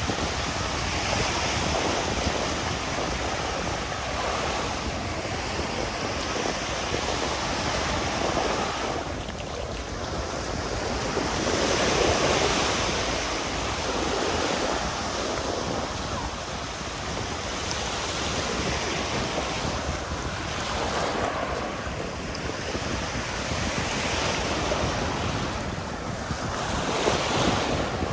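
Surf breaking on a sandy beach, the wash swelling and easing every few seconds, with wind rumbling on the microphone.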